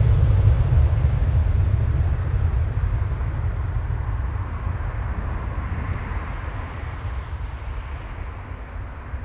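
Aircraft engine noise: a deep, loud rumble that fades steadily as the aircraft moves away.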